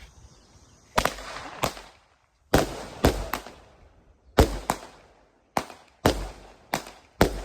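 Consumer firework cake (multi-shot repeater) firing a rapid, irregular volley of about eleven sharp bangs, starting about a second in, each bang trailing off in a short echo.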